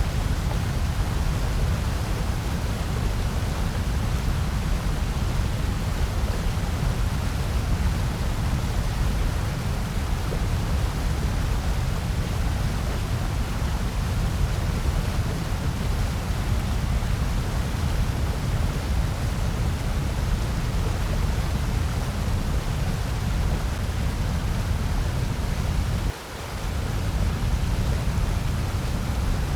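Steady, unchanging white noise, heavier in the low rumble than in the hiss. Near the end it briefly dips for a moment before carrying on as before.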